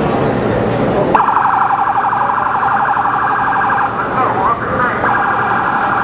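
An emergency-vehicle siren cuts in about a second in with a rapid yelp, switches briefly to a slower swooping wail past the middle, then yelps again, over the steady roar of a ruptured underground steam pipe venting.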